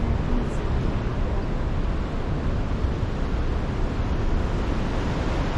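Steady wind rushing over the microphone on the open deck of a cruise ship under way, heaviest in the low end.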